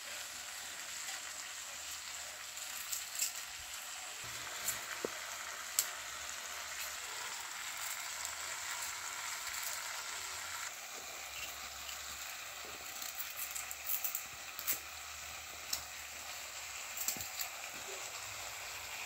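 Sliced onions, tomatoes, garlic and ginger sizzling in hot oil in a metal kadai, with a ladle clicking and scraping against the pan now and then as the vegetables are stirred.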